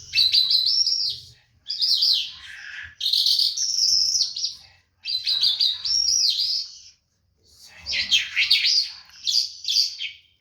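A songbird singing in about five rapid, warbling phrases with short pauses between them.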